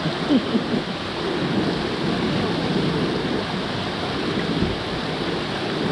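Steady rushing of a waterfall, a dense even roar of falling water.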